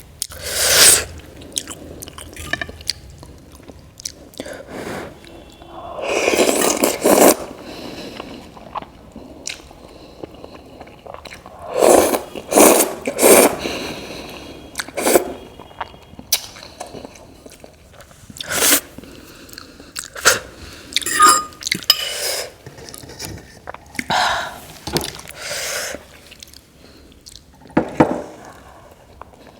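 Close-miked mukbang eating sounds: chewing and biting into noodles and momos, in irregular bursts with short pauses between.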